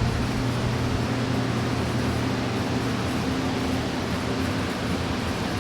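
Ford 302 Windsor V8 crate engine with a hydraulic roller cam, running on an engine stand at a steady idle.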